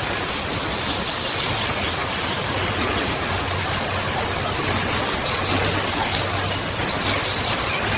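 A steady, loud hiss of noise, even across high and low pitches with no tone or rhythm, which cuts in and out abruptly.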